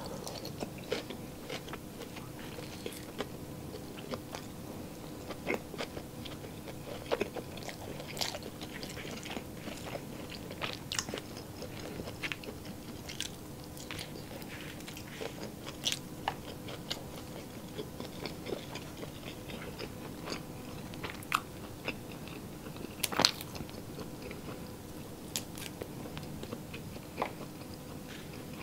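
Close-miked chewing of tocino and fried rice, eaten by hand: scattered wet mouth clicks and smacks. A faint steady hum runs underneath.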